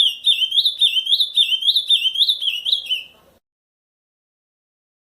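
Ultramarine grosbeak (azulão) singing the Camaquã song type: a fast run of short, hook-shaped whistled notes, about three a second, that stops about three seconds in.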